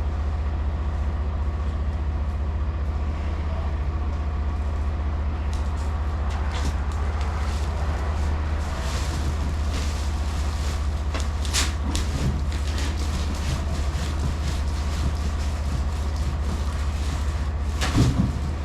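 Semi truck's diesel engine idling with a steady low hum, with scattered clicks and knocks of handling from about five seconds in and a louder thump near the end.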